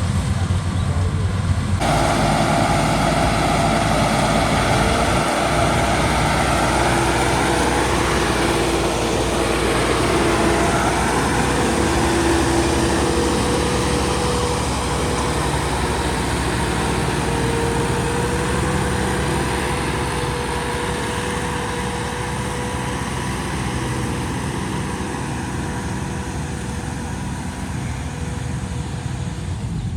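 Tractor engine running steadily, with a sudden change in the sound about two seconds in and a faint whine that drifts slightly in pitch.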